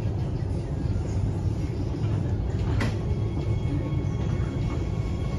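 Interior noise of a CRRC Changchun Type-A metro car: a steady low rumble, with one sharp click about three seconds in, after which faint steady high-pitched tones come in.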